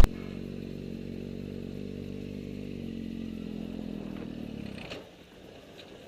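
A vehicle engine running steadily, its pitch dipping a little before it fades out about five seconds in.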